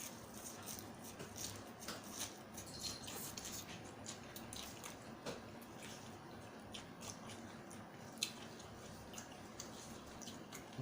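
Faint wet chewing and lip-smacking of someone eating spicy Thai seafood salad, with scattered small clicks and one sharper click about eight seconds in.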